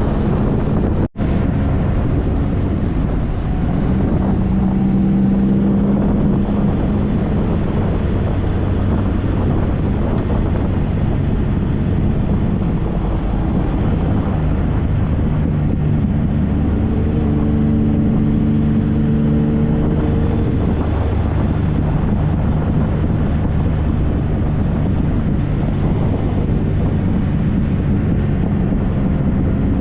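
Triumph Trophy SE's 1215 cc inline-three engine running at road speed, its pitch rising and falling with the throttle, under steady wind noise on the microphone. The sound cuts out for an instant about a second in.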